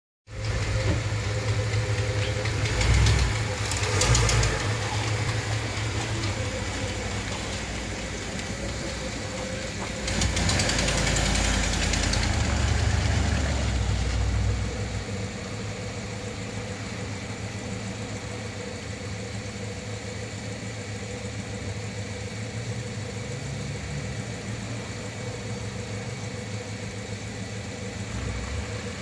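1962 Lincoln Continental's 430 V8 running at idle, a steady low hum with two short swells about three and four seconds in and a louder stretch from about ten to fourteen seconds. It then settles to a quieter, even idle.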